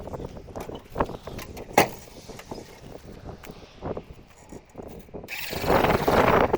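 Car bodywork sounds: scattered knocks and taps, one sharp clank about two seconds in, then a loud, steady rushing noise that starts suddenly about five seconds in and keeps going.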